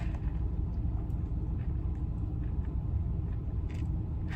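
Steady low rumble of a car interior, with a few faint clicks.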